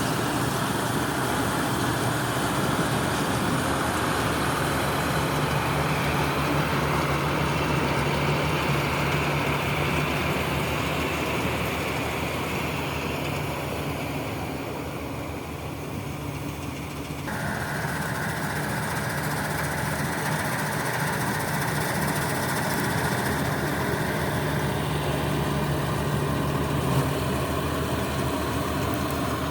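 John Deere 5405 tractor's diesel engine running steadily, driving a Balkar chaff cutter that is chopping paddy straw. The sound sags slightly past the middle, then changes abruptly about seventeen seconds in.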